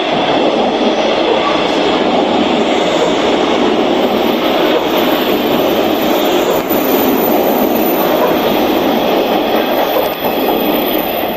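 JNR 185 series electric train running past at speed: a loud, steady rumble of wheels and traction motors on the rails.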